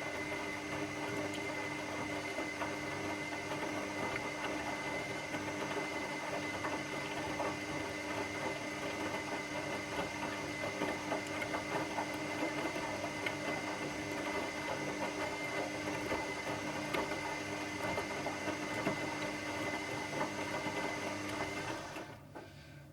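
Washing machine running, a steady motor hum with a few held tones and a constant churning rattle. Near the end it drops off sharply, leaving a fainter low hum.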